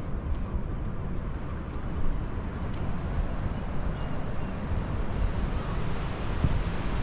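Wind buffeting the microphone outdoors: a steady low rumble that rises and falls in gusts, with no distinct events.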